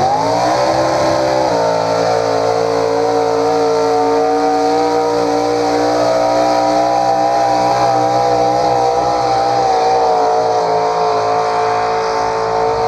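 Tractor-pull competitor's engine at full throttle under load: it revs up in the first moment, then holds at high revs with a slight waver as the vehicle drags the sled.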